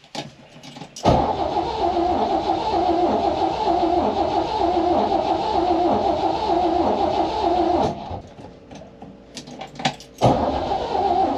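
1953 Chevrolet Bel Air's inline-six being cranked by its starter on a hard cold start. There is a long stretch of cranking, a pause of about two seconds with a few clicks, then cranking again near the end.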